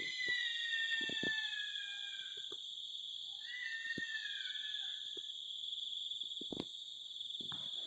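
An unidentified animal gives two drawn-out calls that slide down in pitch, the first lasting over two seconds from the start and the second about three and a half seconds in. Behind them is a steady, high insect chorus, and a few soft knocks can be heard.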